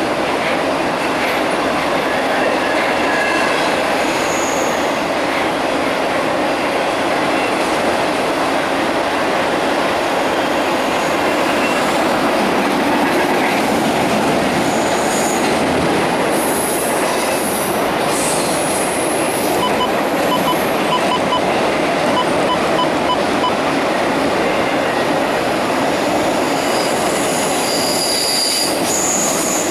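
Norfolk Southern double-stack intermodal freight cars rolling past on a steel girder bridge: a steady, loud rumble and clatter of wheels on rail, with short high-pitched wheel squeals now and then.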